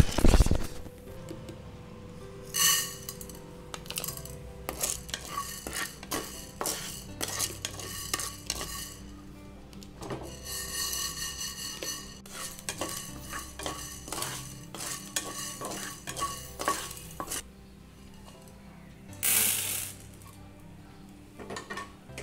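Dry lentils (urad dal and bengal gram) tipped into a metal nonstick pan with a brief loud clatter. They are then dry-roasted and stirred, a spoon clicking and scraping against the pan again and again, with a couple of louder rustling scrapes.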